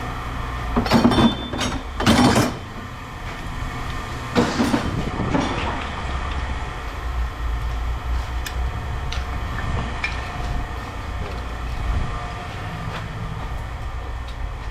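Steady low hum of running machinery, with a few loud clatters of scrap metal in the first five seconds and lighter clicks after.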